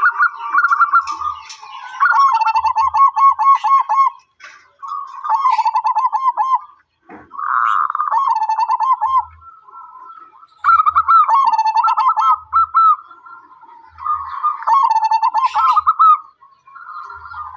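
Zebra dove (perkutut) cooing: about six phrases of quick, evenly repeated coo notes, each phrase two to three seconds long with short pauses between. A single click sounds about seven seconds in.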